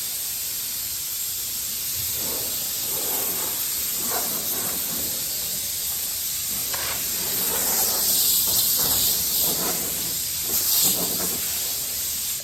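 Compressed-air blow gun hissing steadily as it blows the metho-wiped panel clean before epoxy primer, with stronger blasts over the last few seconds, then stopping abruptly.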